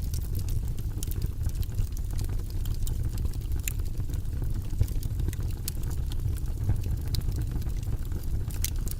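Wood fire burning in a fireplace: a steady low rumble of flames with scattered sharp crackles and pops, one louder pop about five seconds in.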